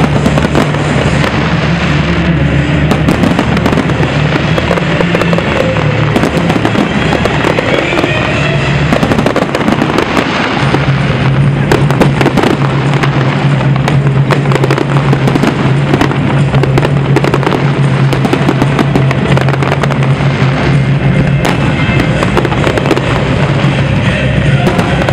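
Fireworks display going off without a break: many bangs and crackles one after another. Music plays underneath with a low bass line.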